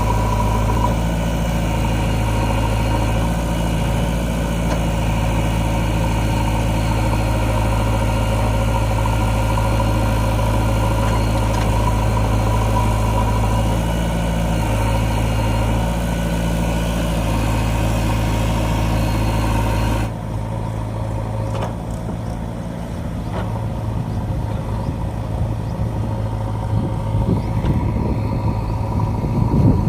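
Diesel engine of a JCB 3DX backhoe loader running steadily, its note shifting a little as the load changes. About two-thirds of the way in the sound changes abruptly to a quieter, rougher engine sound.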